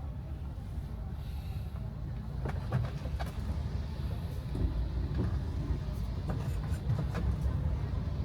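Steady low rumble of a car's engine and road noise heard inside the cabin, with scattered sharp ticks from about two and a half seconds in.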